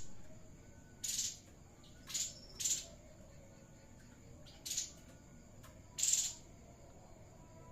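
Grey-headed babbler (tepus kepala abu) calling: five short, sharp, high-pitched notes at irregular intervals, with two close together about two seconds in.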